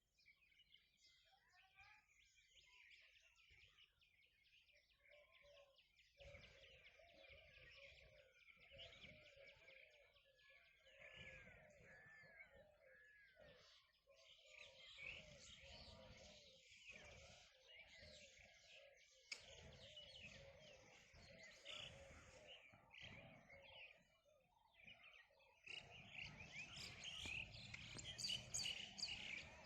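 Faint morning chorus of many birds chirping and calling over one another, growing denser and louder in the last few seconds.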